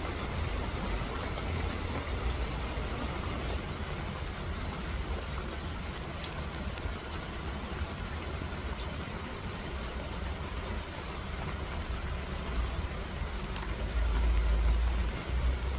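Steady rain falling, an even hiss, with a low rumble underneath that grows louder about two seconds before the end.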